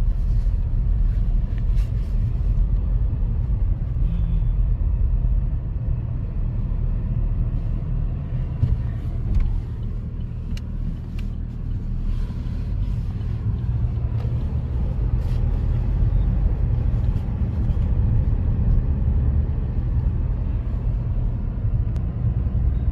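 A car on the road: a steady low rumble of engine and tyres, with a few faint ticks.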